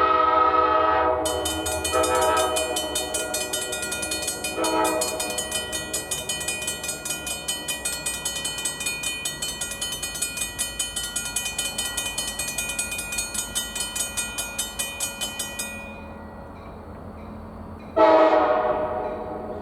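EMD SD40-2 diesel locomotive's air horn sounding a long blast, then two shorter ones, over a grade-crossing bell ringing rapidly. The bell stops about three-quarters of the way through, and the horn sounds one more long blast near the end.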